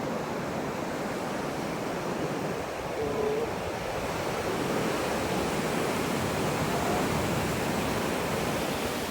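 Atlantic Ocean surf: a steady rush of waves washing onto the beach.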